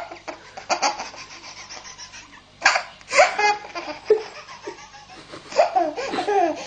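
A baby laughing hard in several bursts of belly laughter: a short one at the start, a longer run about three seconds in, and more near the end, with quieter pauses between.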